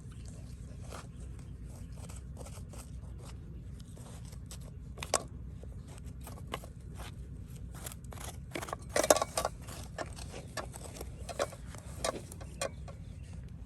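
Scattered short clicks and scrapes, loudest in a cluster about nine seconds in, over a steady low hum.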